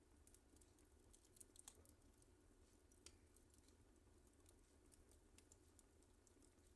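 Wood fire crackling faintly, with scattered small snaps and pops; a few louder snaps come about a second and a half in and again around three seconds.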